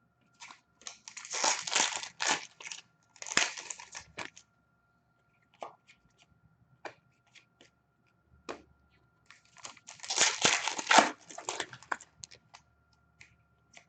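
Hockey card pack wrappers being torn open and crinkled in two stretches of tearing and rustling, about a second in and again near ten seconds in, with scattered light clicks of cards being handled between.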